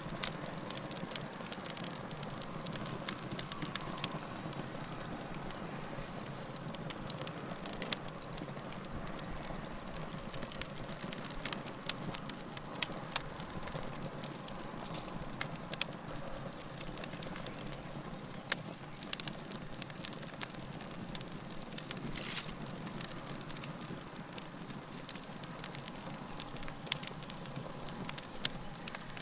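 Fire crackling: a steady hiss with many sharp, irregular pops and snaps, a few of them louder than the rest.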